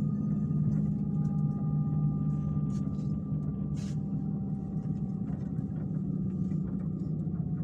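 Steady low rumble of a passenger train carriage running, with a faint steady whine above it and scattered light ticks.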